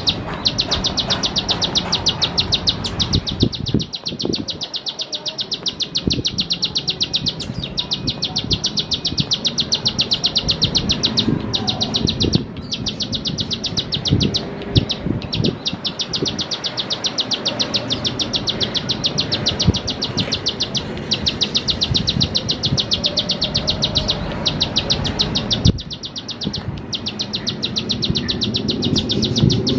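Ciblek sawah, a small prinia, singing its 'klik klik' song: a long, fast, even run of high, sharp ticks, broken by a few short pauses.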